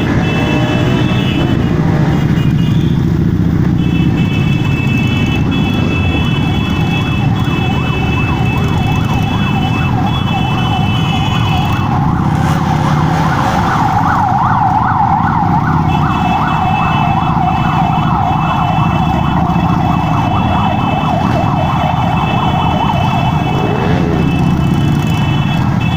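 A vehicle siren sounding over the steady rumble of motor vehicle engines. A fast yelping warble is loudest through the middle of the stretch, and high steady tones come and go.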